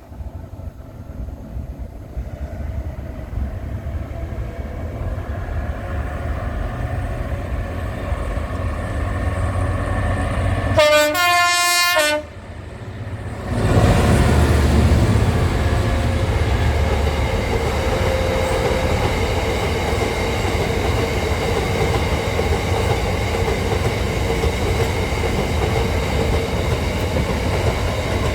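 A train approaching, its rumble building; about eleven seconds in it sounds its horn once for about a second. It then passes loudly, with a steady rumble and wheel clatter on the rails.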